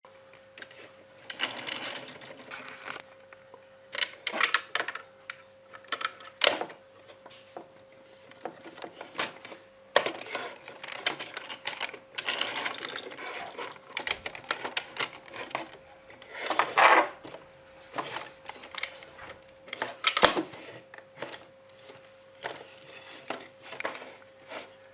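Plastic toys and packaging being handled: irregular clicks, taps and short rustles, over a faint steady hum.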